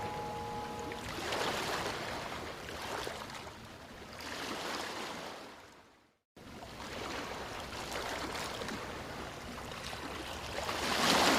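Running water, a steady rushing noise that swells and ebbs, with the last notes of background music dying away in the first second. It cuts out briefly about six seconds in, then resumes.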